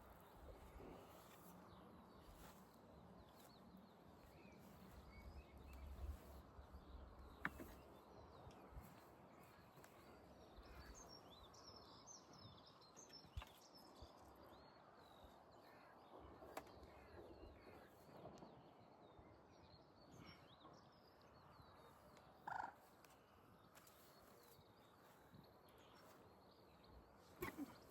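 Near silence: quiet lakeside ambience with faint birds twittering about halfway through and a single short call near the end.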